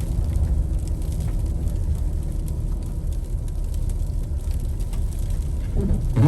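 Steady low rumble inside the cabin of a 2021 Ford Explorer ST driving on a snow-covered road: the twin-turbo V6 engine and the tyres on snow. Just before the end comes a brief, louder voice sound.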